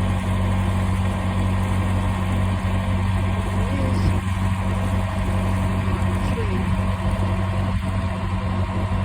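A canal boat's engine running steadily at low speed, a constant low drone.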